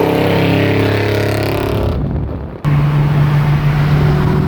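Car engine and exhaust droning at a steady cruising speed. About two-thirds of the way through, the sound cuts abruptly to a different, deeper steady engine drone.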